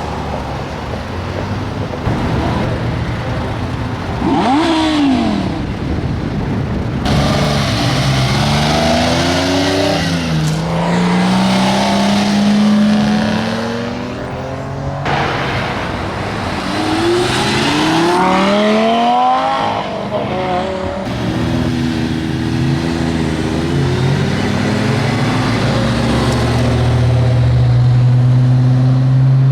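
Lamborghini supercar engines revving and accelerating in a run of short clips that change abruptly, the pitch climbing and falling with each rev; near the end one engine holds a steady low drone.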